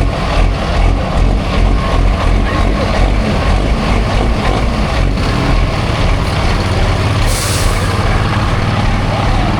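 Large diesel truck engine running loud with a heavy low rumble, and a short hiss of air a little over seven seconds in.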